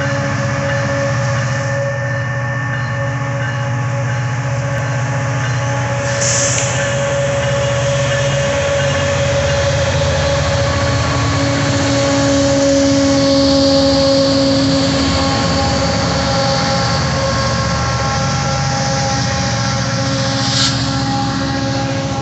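Three Union Pacific SD59MX diesel-electric locomotives passing at speed with a steady engine drone, followed by freight cars rolling by on the rails. A brief high-pitched sound comes about six seconds in, and a short sharp one near the end.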